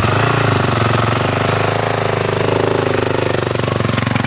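Dirt bike engine running steadily after being started, with a rapid, even firing pulse.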